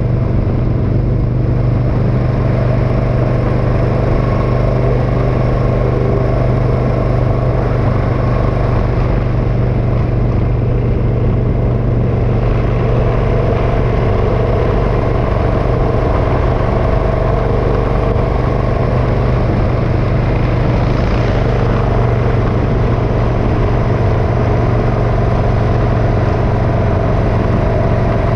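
Motorcycle engine running steadily at a constant cruising speed: a loud, unbroken drone with no gear changes or revving.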